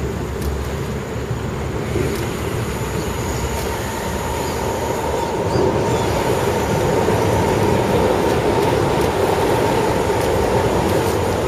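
Electric motors and gearboxes of radio-controlled off-road scale trucks running, a steady mechanical drone with a thin whine that comes in about three seconds in, growing a little louder about halfway.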